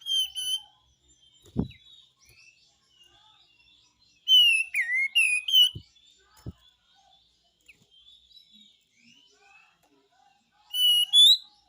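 Kapas tembak bird singing its besetan song in three loud bursts of shrill, sweeping whistled notes: one at the start, a longer phrase about four seconds in, and another near the end. Fainter chirps fill the gaps, with a few soft knocks.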